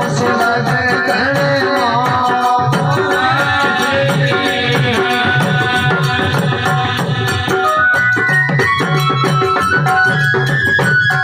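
Instrumental passage of a live Rajasthani folk devotional bhajan: a hand drum keeps a steady beat under a melody line, with a rattle-like shaker.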